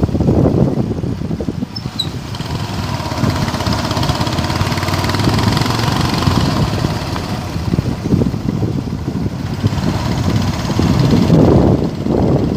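Engine and road noise of a moving vehicle on the road, steady throughout with the rumble rising and falling.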